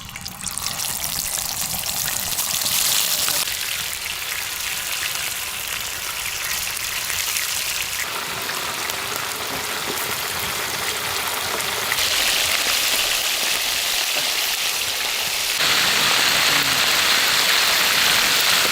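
Chicken legs deep-frying in a large pan of hot oil: a steady, loud sizzling hiss whose level jumps up or down abruptly several times.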